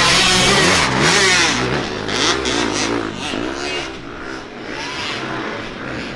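Dirt bike engines revving up and down as the bikes race past, loudest in the first second and a half and then fading as they move away.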